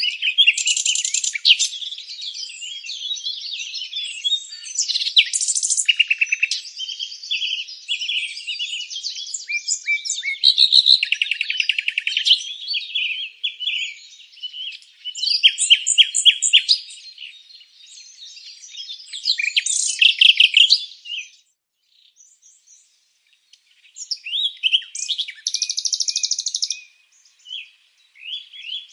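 Several songbirds singing and chirping over one another: quick high chirps, rapid trills and buzzy phrases. The singing pauses briefly about two thirds of the way through, then picks up again.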